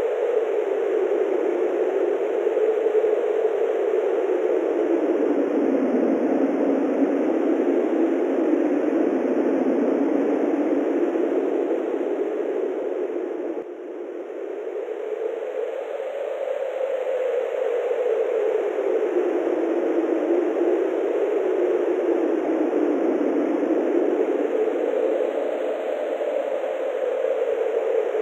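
Steady wind blowing, a continuous whooshing whose pitch slowly rises and falls over several seconds as it gusts. The sound briefly drops away about halfway through, then builds back.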